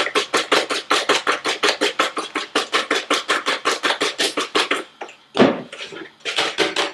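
Hand whisk beating eggs and sugar in a bowl, quick even strokes at about six a second. The whisking pauses about five seconds in, with one louder thump, then starts again near the end.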